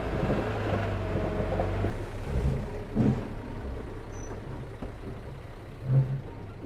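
Diesel engine of heavy construction machinery running with a low rumble that gradually fades, with two short thumps about three and six seconds in.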